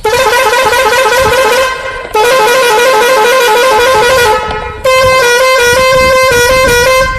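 A loud horn-like electronic tune, a quick run of notes played over and over in three phrases with short breaks about two and five seconds in.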